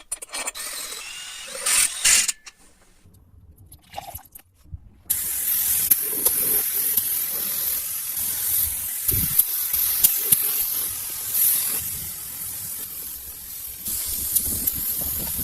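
A spray hissing steadily for about ten seconds, starting about five seconds in and cutting off abruptly near the end, after a few short hisses and knocks at the start.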